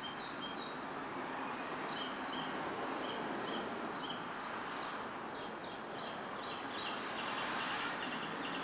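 Small birds chirping over and over, short high notes often in falling pairs, over a steady background hiss. A brief rushing noise comes near the end.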